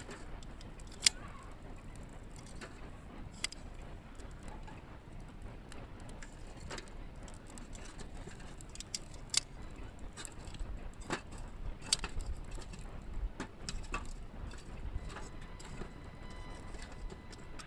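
Scattered sharp clicks and light knocks over a low steady background, one louder tick about a second in and a busier run of clicks in the second half.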